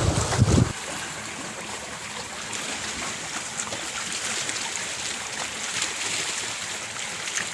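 Lake water trickling and lapping in a steady hiss with faint small splashes, after a short gust of wind on the microphone at the very start.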